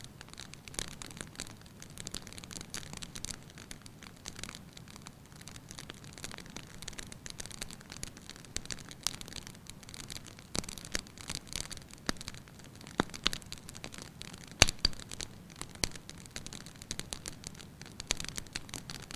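Wood fire burning in a fireplace, crackling with irregular sharp pops over a soft steady hiss; one louder pop about two-thirds of the way through.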